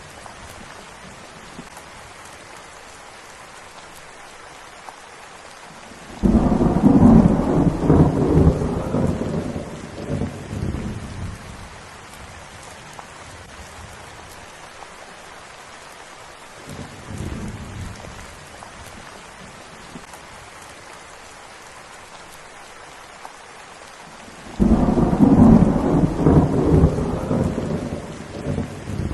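Steady rain, with thunder rumbling loudly twice: once about six seconds in and again near the end, each roll starting suddenly and fading over several seconds. A fainter rumble comes around the middle.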